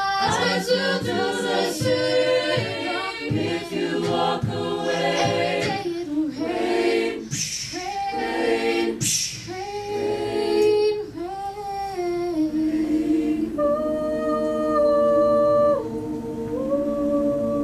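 A cappella group singing wordless harmony with voices only, with percussive beats under it in the first few seconds, then settling into long held chords that shift once near the end.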